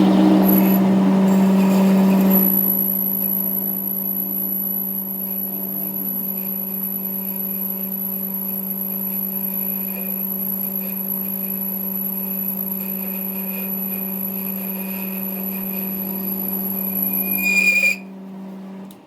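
Steady machine hum at one constant pitch, louder for the first two seconds, then even, and stopping shortly before the end.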